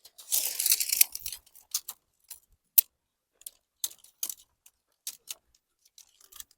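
Handling gear while pitching a tent: a rustle about a second long near the start, then scattered light clicks and clinks.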